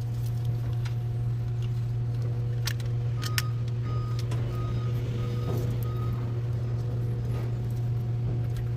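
Steady low electrical hum with a few sharp clicks and knocks as washer parts are fitted back in place.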